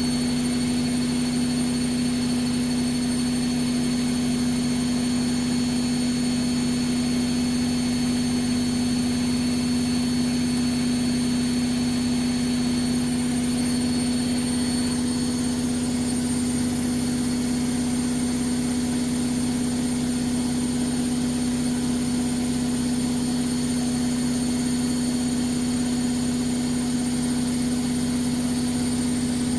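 Vestel CM8710 washing machine in its final spin at 1000 rpm: the drum motor runs at a steady speed, a constant hum with one strong low tone that neither rises nor falls.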